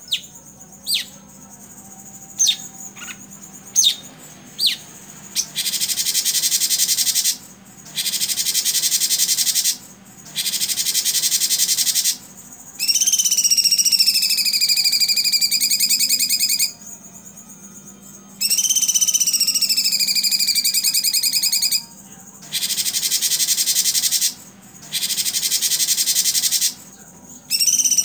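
Cucak cungkok singing. It opens with a few sharp falling chirps, then gives repeated bursts of very rapid, rattling notes (its 'tembakan') lasting one and a half to two seconds each, alternating with longer wavering, falling whistles.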